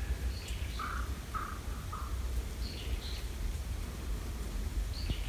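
Wild birds calling: three short notes in a row about a second in, with scattered higher chirps, over a steady low rumble.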